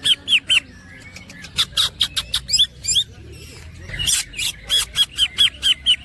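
Green leafbird (cucak ijo) singing: fast series of short repeated hooked notes, about five a second, broken in the middle by a more varied run of notes.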